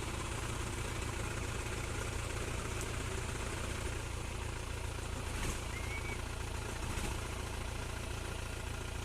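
A vehicle engine running steadily at idle, with a couple of faint clicks about midway.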